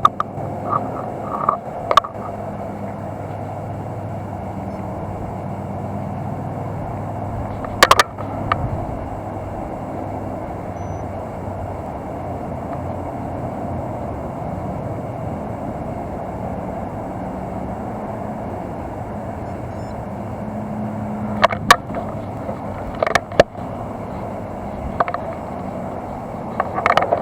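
Steady low rumble, with sharp clicks and knocks: a few in the first two seconds, one near eight seconds, and a cluster in the last six seconds.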